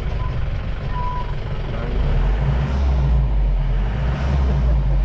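Mahindra Bolero Maxi Truck Plus pickup's engine running on the move, its low rumble growing louder about two seconds in. Two short high beeps sound in the first second.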